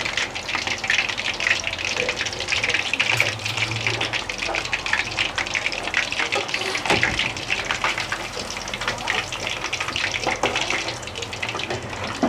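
Chicken leg pieces frying in hot oil in a pan, a steady dense crackling sizzle.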